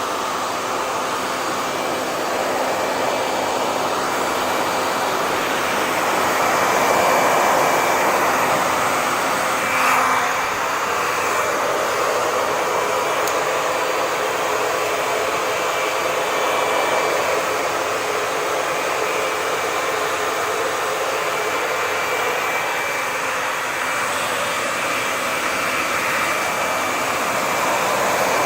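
Hair dryer running continuously: a steady rush of blown air with faint thin whine tones on top. It swells a little louder around seven seconds in, with a brief surge at about ten seconds.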